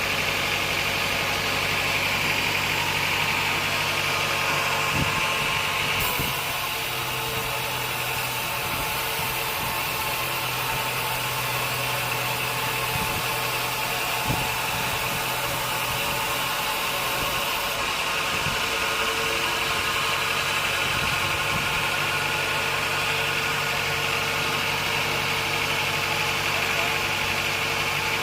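Sawmill machinery running steadily: a motor's even hum with a hiss above it. The sound shifts about six seconds in, turns brighter and hissier, and settles back a little before twenty seconds. A few short knocks are heard along the way.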